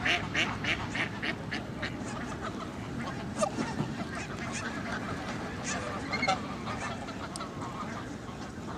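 Geese and ducks calling: a quick run of loud repeated calls at the start that trails off within the first second or so, then scattered single calls.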